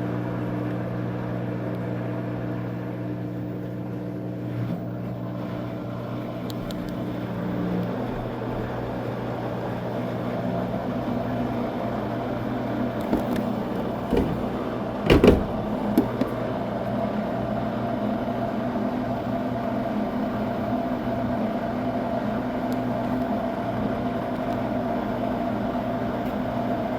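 Coin-operated washing machine draining: its drain pump hums steadily, the hum changing pitch about eight seconds in. A few clicks and one loud clunk come about halfway through.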